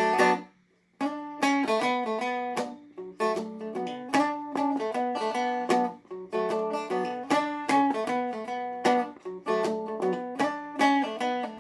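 Seagull Merlin M4 (a four-string fretted strumstick-style instrument) picked with a flatpick, playing a quick single-note riff in B minor over a steady ringing drone note, with a short break about half a second in.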